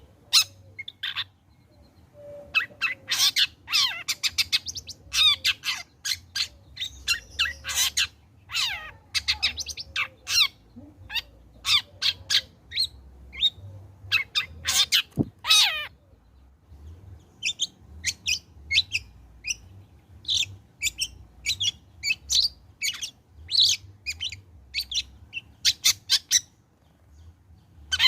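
Long-tailed shrike (cendet) singing in full voice: rapid runs of short, sharp, high chattering notes, with a brief pause about sixteen seconds in before the song resumes.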